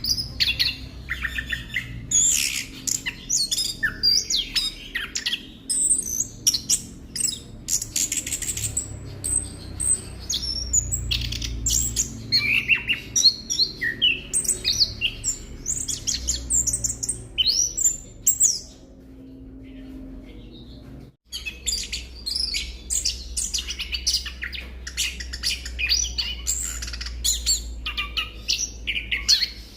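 Orange-headed thrush (anis kembang) singing a fast, varied song of quick rising and falling notes, breaking off for about two seconds past the middle and then starting again, over a steady low hum.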